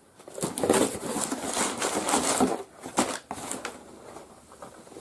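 Packaging being handled: irregular rustling and scraping, with a few sharp clicks around the middle.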